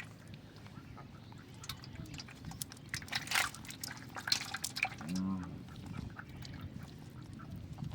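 Water splashing and dripping in short irregular bursts, with one short pitched animal call about five seconds in.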